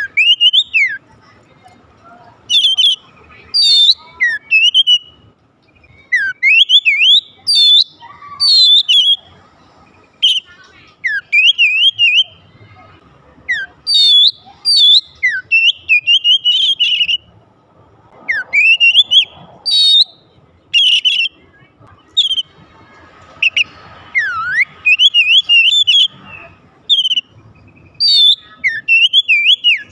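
Oriental magpie-robin (kacer) singing: loud, varied whistled phrases full of quick rising and falling glides, delivered in short bursts with brief pauses between them.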